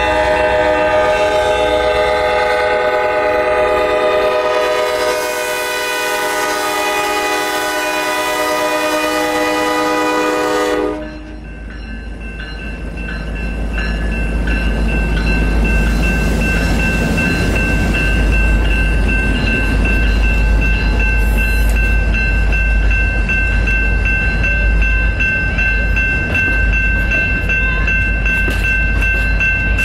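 EMD F40FH diesel-electric locomotive's air horn sounding one long chord for about eleven seconds, cutting off suddenly. Then the train's low rumble builds and holds, with a thin steady high whine over it.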